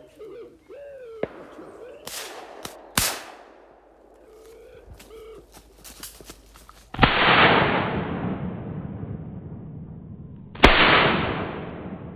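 Two shotgun shots about three and a half seconds apart, each followed by a long fading echo. Before them, a bird coos and a few sharper cracks and clicks are heard.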